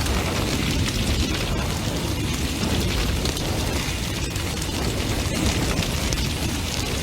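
Large bonfire burning intensely: a steady low roar of flames with constant crackling and small pops.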